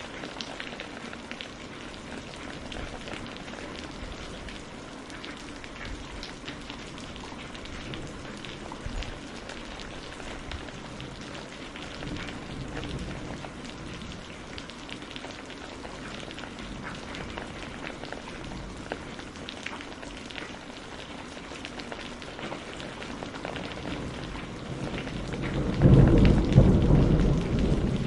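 Steady rain falling on a greenhouse roof, with many small drop ticks. Near the end a loud low roll of thunder sets in.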